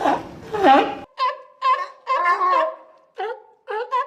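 Sea lion barking: a couple of honking calls that drop in pitch. About a second in the sound cuts abruptly to a different animal's rapid run of short, pitched honking calls.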